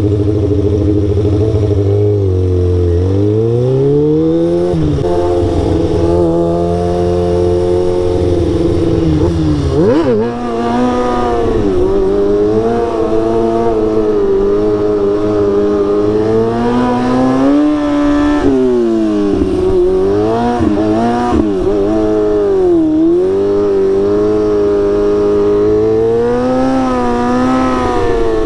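Motorcycle engine running while being ridden, its pitch rising and falling with the throttle and gear changes: it climbs a few seconds in, drops sharply about ten seconds in, then keeps rising and falling.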